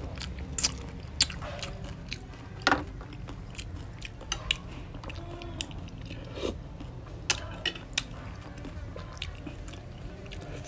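Chewing and biting of raw crab with papaya salad, with many sharp, irregular crunches of crab shell.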